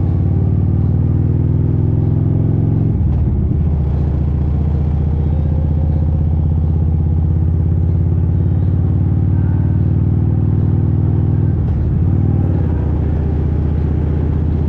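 Motorcycle engine running steadily while riding, its pitch shifting abruptly twice: once about three seconds in and again near twelve seconds.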